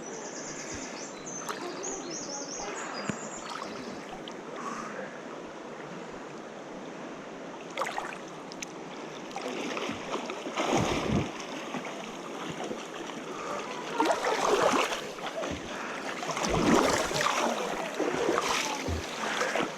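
Running water with a steady rush, and louder, irregular splashing surges in the second half.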